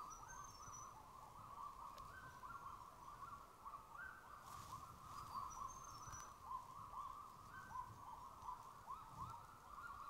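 Faint, distant bird calls: many short rising notes overlapping continuously, with a few thin, high whistled notes now and then.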